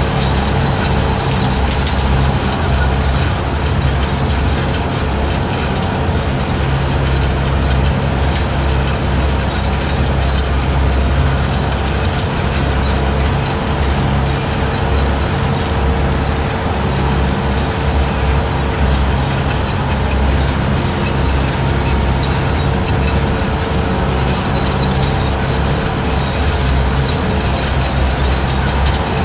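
Skid steer engine running steadily at working speed, driving a 72-inch brush cutter through long grass, with a faint steady whine over the low engine drone.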